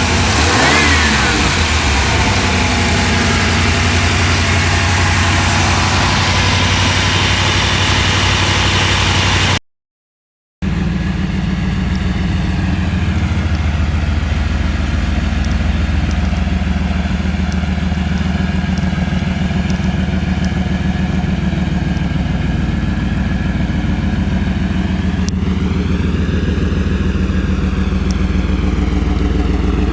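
A 1992 Pontiac Firebird's fuel-injected 5.0-litre (305 cu in) V8 running, blipped up and down near the start. The sound cuts out briefly about ten seconds in, then the engine runs steadily again, with another rise and fall in pitch a few seconds before the end.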